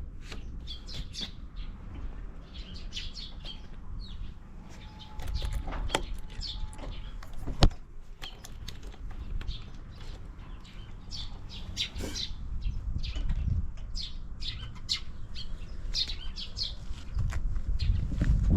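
Small birds chirping repeatedly over a low, steady rumble, with one sharp click about halfway through.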